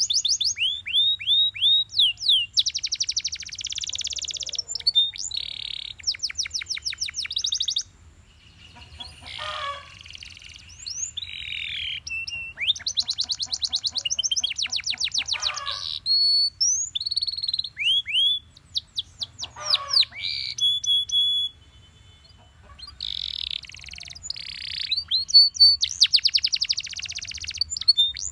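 Belgian canary singing a long song of rapid trills: runs of quick downward-sliding notes alternating with buzzy rolls, broken by short pauses about eight seconds in and around twenty-one seconds.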